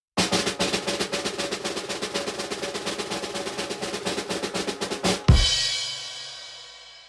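Rapid snare drum roll lasting about five seconds, ending in one loud cymbal and bass drum hit that rings out and fades away.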